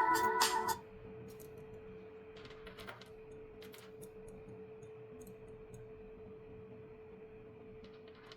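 A steady, faint hum at one pitch with a few light clicks and taps, like small tools being handled on a workbench. A loud burst of music ends under a second in.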